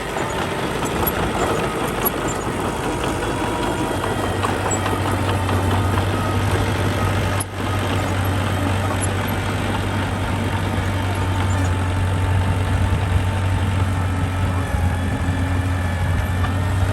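Diesel engine of heavy earthmoving machinery running steadily with a constant low hum, with one short click and a brief dip in level about halfway through.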